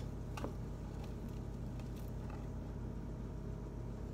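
Steady low background hum with a couple of faint clicks in the first half second.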